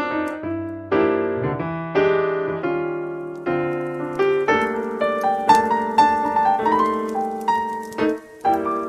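Slow jazz piano music: struck chords under a melody, with a short pause near the end.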